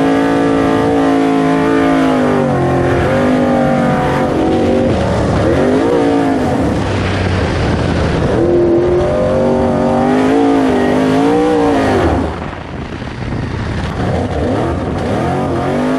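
Race-built 427 Golen V8 engine of an off-road super truck running hard, its pitch climbing and dropping again and again as the throttle is worked. The engine drops back and gets quieter about twelve seconds in, then picks up again near the end.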